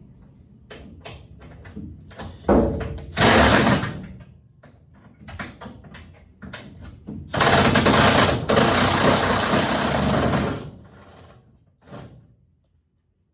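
Impact wrench running in two bursts, a short one and then a longer one of about three seconds, with metal clicks and knocks of tools between them.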